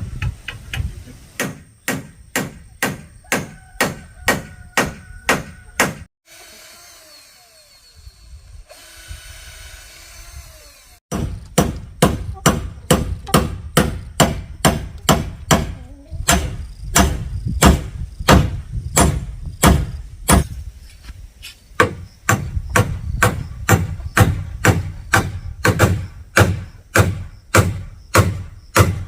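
Steady, evenly paced blows of a hand tool on wood, about two to three strikes a second. The blows stop for about five seconds after the first six seconds, then resume at the same pace.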